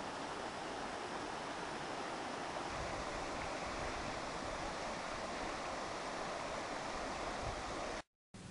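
Steady rush of moving water, an even hiss with no distinct events, cut off abruptly near the end.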